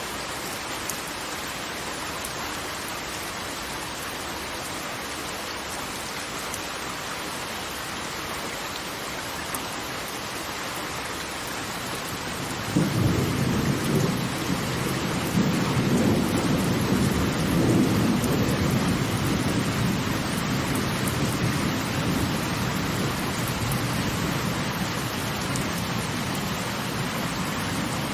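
Steady rush of falling water. About halfway through, a deep rumble of thunder starts suddenly and slowly dies away.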